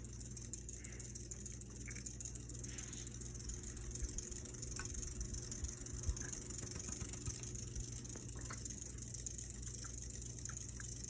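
Seagull Lighting Main Street ceiling fan running on high speed: a steady low motor hum, with a few faint ticks.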